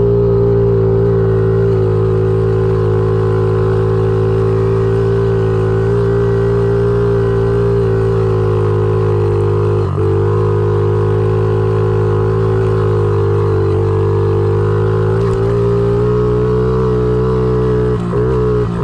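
Honda CRF50 pit bike's small single-cylinder four-stroke engine running at fairly steady revs under way, with brief dips as the throttle is eased about ten seconds in and again near the end.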